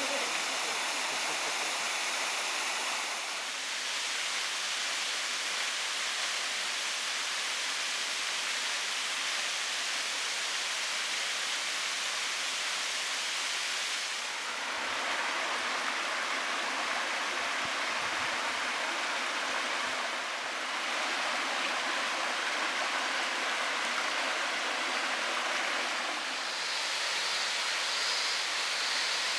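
Waterfall and mountain-stream cascades rushing steadily, the flow reduced to low summer water. The sound shifts abruptly in tone and strength a few times.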